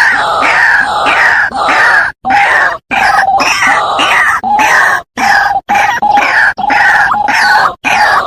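White-breasted waterhen calling: loud, harsh notes repeated rapidly, about two or three a second, cut by several abrupt short silent gaps.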